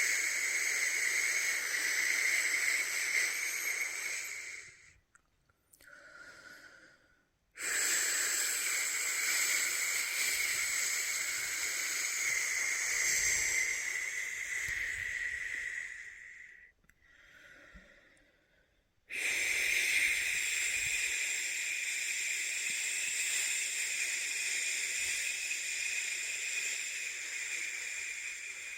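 A person making long, steady "shhh" shushing sounds as soothing white noise to settle a newborn to sleep. There are three long shushes, each lasting several seconds, with two short quiet pauses for breath between them.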